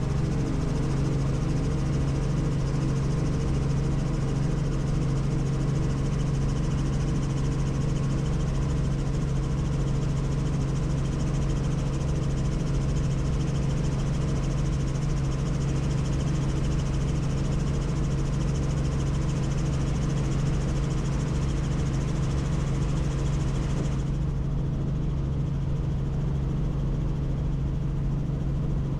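Helicopter in flight heard from inside the cabin: a steady rotor and engine drone with a strong low hum and a rushing hiss above it. The hiss falls away near the end while the drone runs on unchanged.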